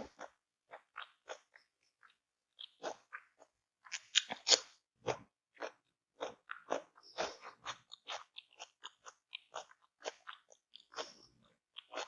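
A person biting and chewing crunchy food close to the microphone: irregular crunches and chews, with a louder cluster of bites about four seconds in.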